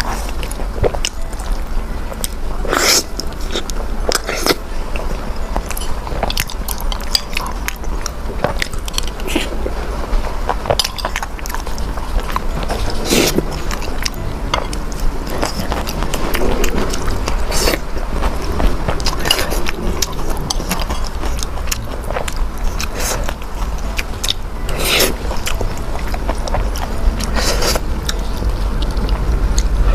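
Close-miked eating sounds: chewing, with frequent irregular mouth clicks and smacks, over a steady low hum.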